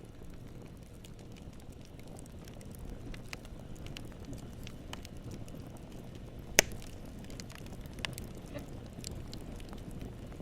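Campfire burning: a steady low rumble of flames with scattered small crackles, and one loud sharp pop about two-thirds of the way through.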